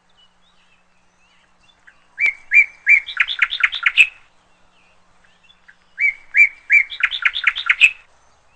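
A songbird singing two songs about four seconds apart. Each song opens with a few separate clear notes and ends in a quicker run of notes.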